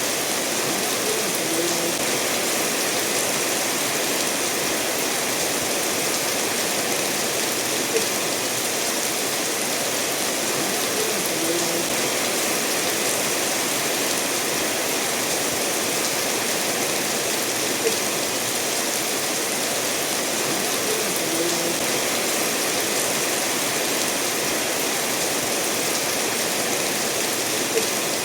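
Steady rain falling together with a stream running over stones, an even wash of water sound. A short, sharper tick stands out about every ten seconds.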